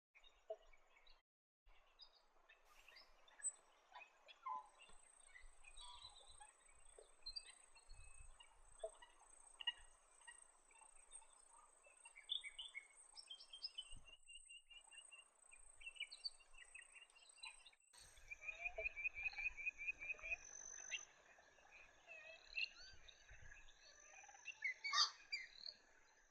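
Faint wetland field recording of assorted bird chirps and calls over a light background hiss. A high, thin, sustained trill runs through much of the first two-thirds. After a short break about two-thirds in, a rapid run of notes comes at about eight a second.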